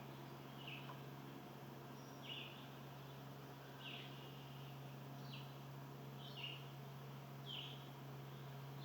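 A bird repeating short chirps, about one every second or so, over a steady low hum.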